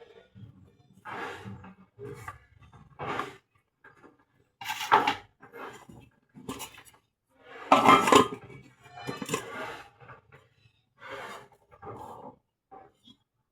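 Irregular clattering and banging, a string of separate knocks and crashes, the loudest about five and eight seconds in.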